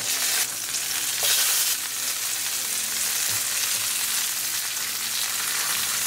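Chicken chapli kebab patties sizzling in shallow oil in a nonstick frying pan as they are turned over with a silicone spatula. The sizzle is steady and flares louder twice in the first two seconds.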